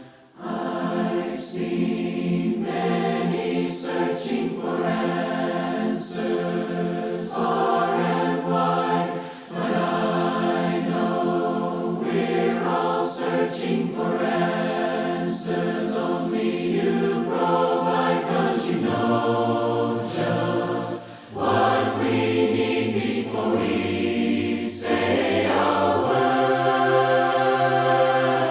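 A choir singing a hymn without instruments, in several voice parts, with held chords that change every second or two and a couple of brief breaks between phrases.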